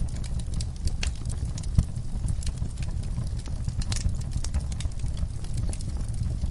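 Wood fire burning in a fireplace: irregular crackles and pops over a low steady rumble of the flames, with a sharper pop about two seconds in.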